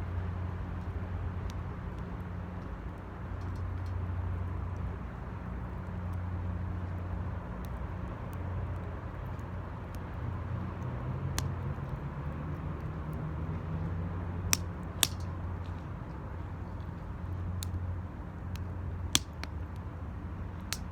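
Wood fire burning in a metal can, giving a few sharp crackling pops over a steady low hum that swells and fades.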